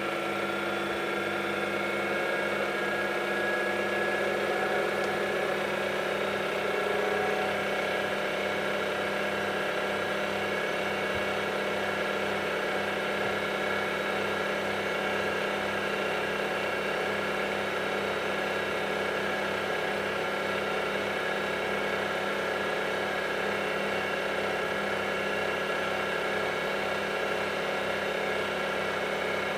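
Samsung washing machine running a wash cycle: a steady motor hum with a regular pulsing beat, and a tone that rises slowly over the first several seconds.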